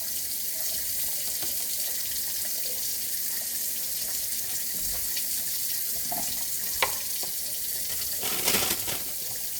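Kitchen tap running steadily into a sink, with a sharp click about seven seconds in and a brief louder rush of water shortly after.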